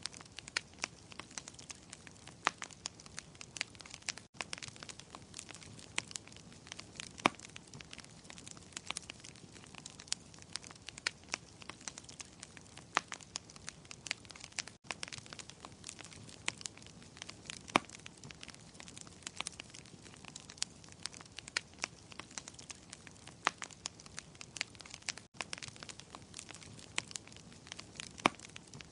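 Wood fire crackling: frequent irregular sharp pops and snaps over a steady soft hiss. The sound cuts out for an instant three times, about ten seconds apart.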